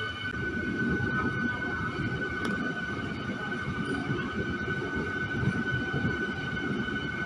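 MEMU electric multiple-unit train running along the track: a steady, dense rumble with a constant high whine over it.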